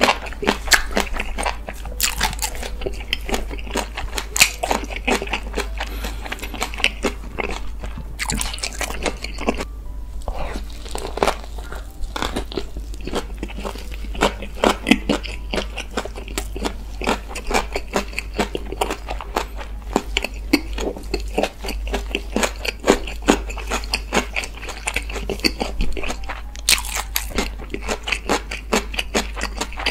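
Close-miked eating sounds: steady chewing with many short, sharp crunches and bites, from someone eating smoked pork belly.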